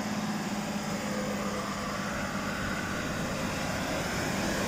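Diesel train engine running steadily with a low hum, slowly growing louder.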